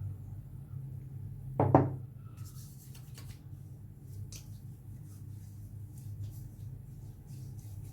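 A short sharp knock about two seconds in, then soft, scattered rubbing and patting as shave tonic is worked onto the skin by hand.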